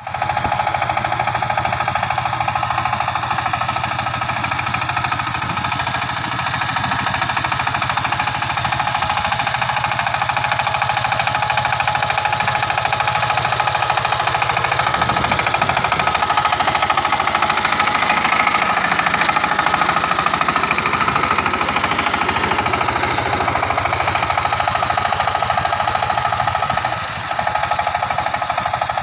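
Power tiller's single-cylinder diesel engine running steadily with a fast, even knocking beat. It dips briefly near the end.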